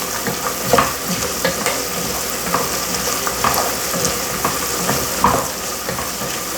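Diced vegetables and garlic sizzling as they sauté in a soup pot, with a spoon stirring and scraping against the pot in scattered clicks.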